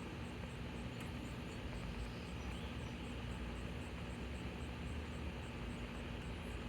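Steady background noise with a low rumble, a faint steady hum and a faint, even high ticking about three times a second.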